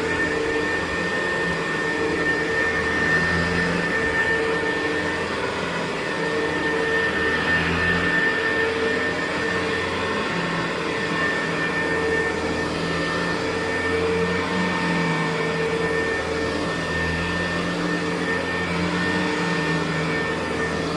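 Hoover U4007 upright vacuum cleaner with a four-row commercial brushroll running steadily over carpet: a steady motor whine over a low hum that swells and eases every couple of seconds.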